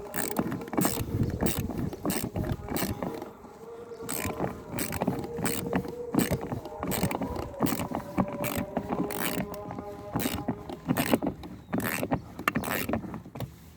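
Irregular ratcheting clicks and knocks of a hand tool working on a car door's trim fasteners, with a faint steady tone underneath.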